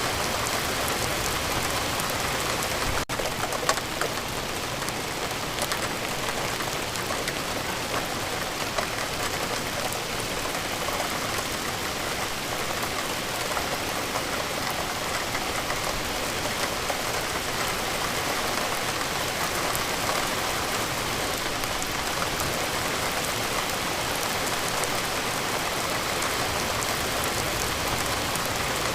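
Steady rain falling, an even dense hiss of drops with scattered louder drop taps, broken by a momentary gap about three seconds in.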